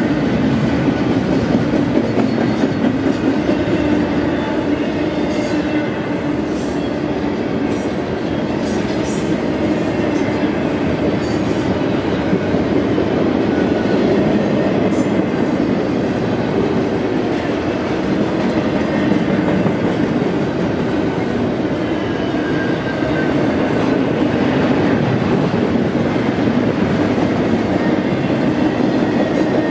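Double-stack intermodal freight cars rolling past: a loud, steady rumble and rattle of steel wheels on the rails, with faint high wheel squeal coming and going.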